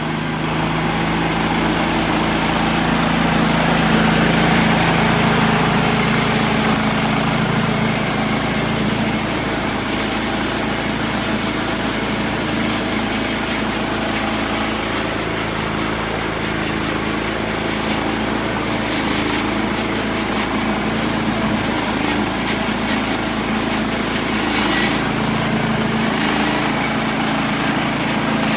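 Small gasoline engine driving a wood-cutting saw, running steadily, its note shifting slightly now and then as the load changes.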